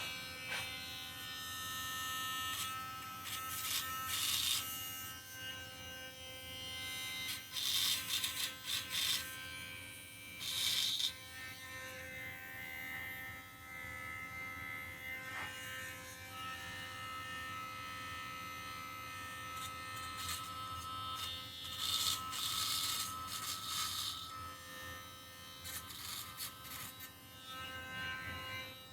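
Small handheld rotary tool running with a steady high whine, its bit grinding rough edges off an engine block in several bursts of louder, harsher scraping. It stops right at the end.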